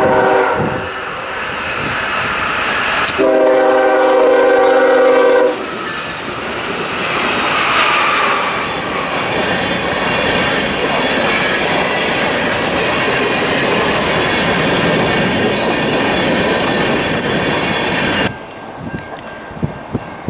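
CSX freight locomotive sounding its horn at a grade crossing: a short blast at the start, then a longer, louder one about three seconds in. The train then rushes past with a steady rumble and clatter of locomotive and freight cars, and the sound drops away sharply near the end.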